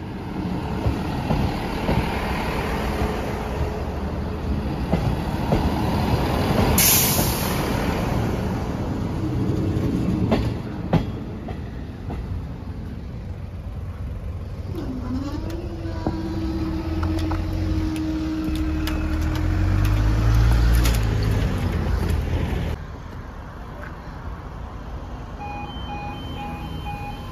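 A Class 158 diesel multiple unit passes over a level crossing, with the rumble of its wheels and underfloor diesel engines and a sharp hiss about seven seconds in. The rumble rises again before fading, and near the end the crossing's warning alarm starts pulsing as its lights come on.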